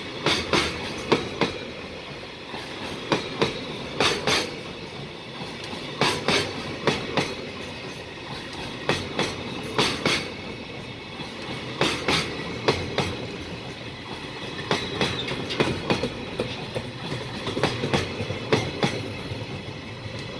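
JR Freight container wagons (Koki flatcars loaded with containers) rolling past, their wheels clattering over the rail joints in sharp double clicks every second or two over a steady rumble.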